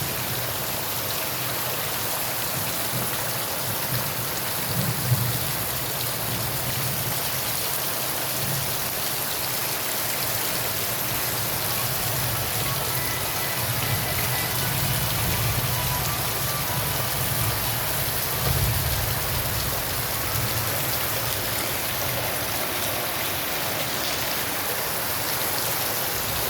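Steady rain falling, a continuous even hiss of drops on surfaces, with a few low rumbles underneath.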